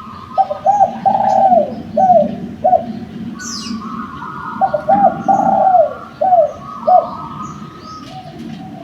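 Spotted dove (derkuku) cooing: two phrases of several low coo notes about four seconds apart, with small birds chirping high behind it.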